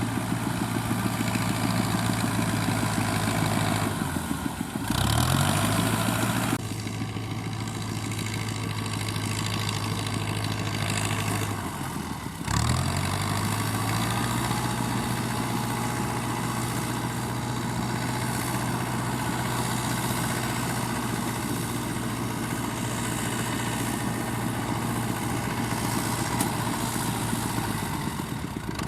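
Fiat 640 tractor's four-cylinder diesel engine running steadily while working a straw baler. Twice the engine note drops sharply and climbs back up.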